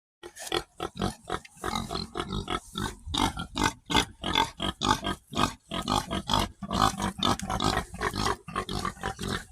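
Pig grunting and oinking in a rapid, continuous run of short, rough calls, several a second.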